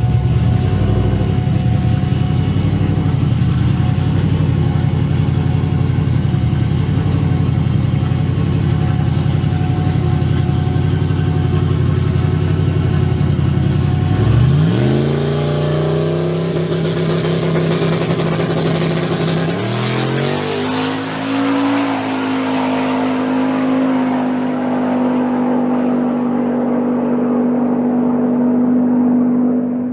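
Turbocharged race truck engine running steadily, then about halfway through its pitch sweeps sharply up and levels off. It climbs again a few seconds later and holds a high, steady note until near the end.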